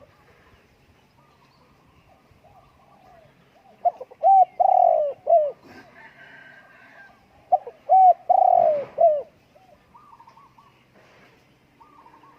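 Spotted dove cooing: two phrases about three and a half seconds apart, each a couple of short coos leading into a long falling coo and a short final note. Faint chirping of other small birds underneath.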